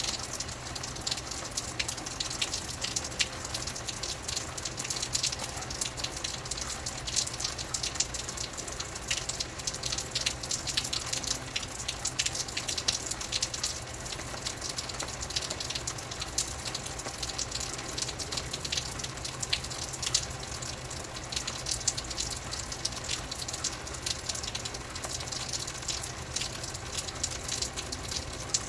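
Steady rain falling, a dense patter of many small drop impacts over an even hiss, with a constant low hum underneath.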